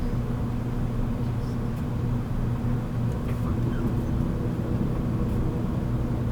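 Steady low hum and rumble inside a JR Kyushu 783 series electric train car.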